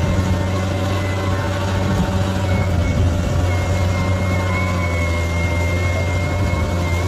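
Bulldozer's heavy diesel engine running steadily with a deep, even hum. A thin high whine joins about two and a half seconds in and holds.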